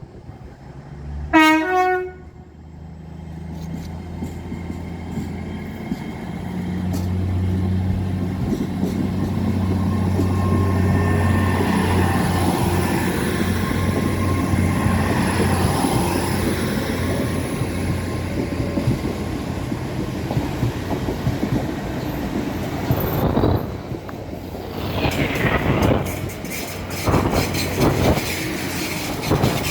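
A train sounds its horn in one short, loud blast, then runs past, its engine building to a steady low drone. Near the end the wheels clack rhythmically over the rail joints, with a brief squeal.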